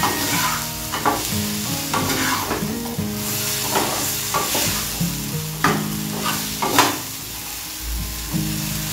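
Wooden spatula stirring and scraping brinjal wedges around a black wok while the oil sizzles, with a sharp scrape every second or so, the loudest about two-thirds of the way through.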